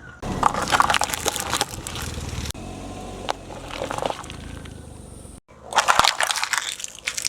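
Car tyres rolling over crunchy objects and crushing them: dense crackling and snapping in three separate bursts.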